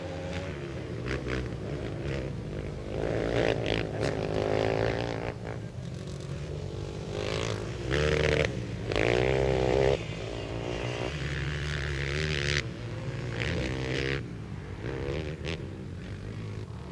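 Several racing quad (ATV) engines revving up and down as they pass on a dirt flat track. The pitch rises and falls repeatedly, and the loudest passes come about eight and nine seconds in.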